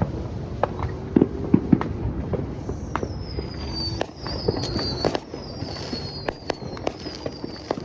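Many fireworks and firecrackers going off around the area as a string of sharp pops and bangs over a steady low rumble. From about two and a half seconds in, a high whistle slides down in pitch again and again.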